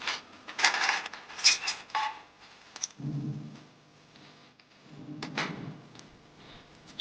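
A quick run of sharp knocks and clatter, like hardware being handled, in the first two seconds. Then two short low hums about three and five seconds in.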